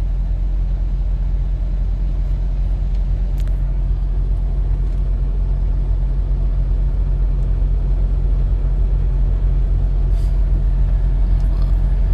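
Diesel truck engine idling with a steady low rumble.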